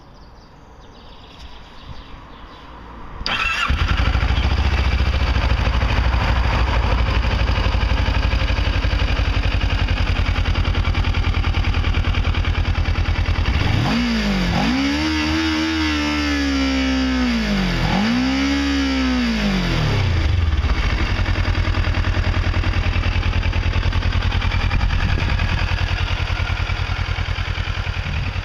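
Kawasaki ER-6f's 649 cc parallel-twin engine starting about three seconds in and idling. It is revved twice in the middle, with pitch rising and falling each time, then settles back to idle.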